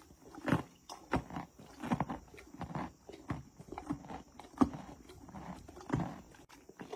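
A horse chewing a carrot: repeated crisp crunches, about one or two a second.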